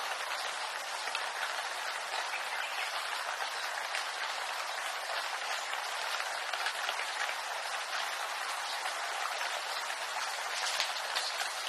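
Steady rain falling through bamboo, a dense patter of many fine drops hitting leaves, with no pauses.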